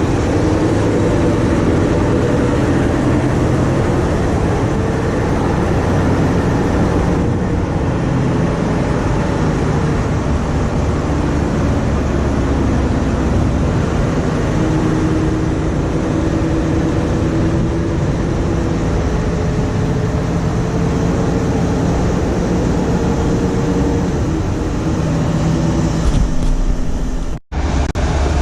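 Heavy diesel vehicle engine running steadily, with a low engine hum throughout; the sound drops out for an instant near the end.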